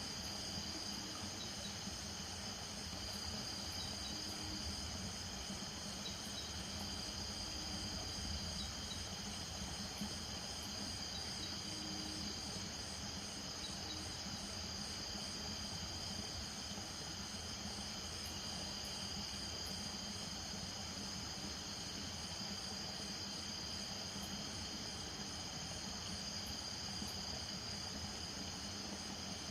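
Night chorus of crickets and other insects: steady high-pitched trilling in several layers, one of them pulsing rapidly. A few short low frog calls sound in the first half.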